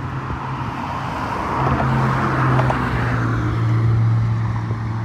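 Motorboat engine running as the boat passes close by, a steady low hum with rushing water, growing louder about one and a half seconds in and easing off near the end.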